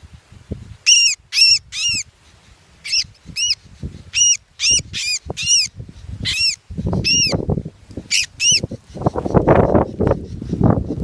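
Sooty-headed bulbul giving a dozen or so short, sharp, high call notes, some in quick runs of two or three. In the second half a loud rustling noise joins in.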